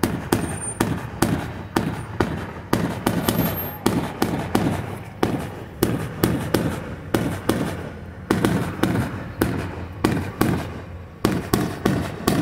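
Aerial fireworks bursting in a rapid barrage, two or three bangs a second, each trailing off in a short echo.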